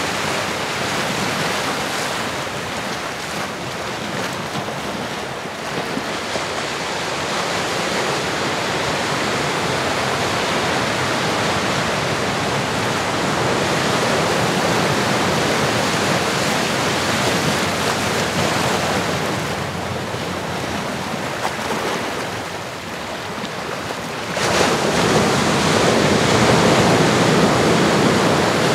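Recorded ocean waves: a steady rush of surf that swells and ebbs, stepping up suddenly to a louder surge near the end.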